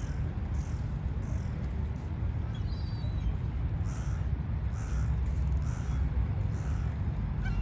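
A crow cawing, a run of about four harsh calls evenly spaced from about four seconds in, over a steady low rumble.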